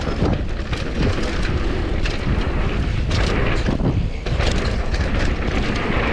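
Downhill mountain bike (Commencal Supreme DH) descending fast over rough trail: wind buffets the action camera's microphone over a steady rumble from the tyres, with frequent irregular knocks and rattles from the bike.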